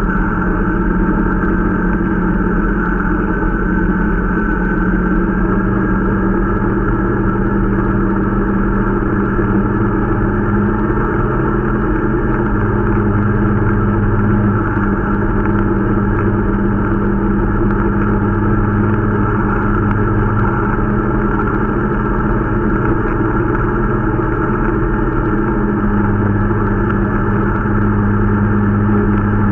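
Irbis Dingo T125 snowmobile's 125 cc four-stroke engine running steadily under way, its pitch rising and falling only a little. The machine is new and being run in.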